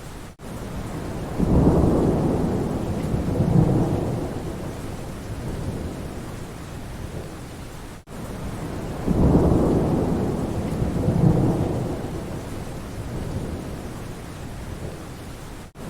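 Steady rain falling in a forest, with low thunder rumbling twice, each roll swelling and fading over several seconds. A brief dropout comes about every eight seconds.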